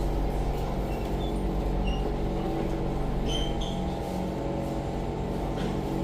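Inside a Siemens C651 metro train car slowing to a stop: a steady low rumble of the car and its air-conditioning, with a few short, high brake squeaks between about one and four seconds in.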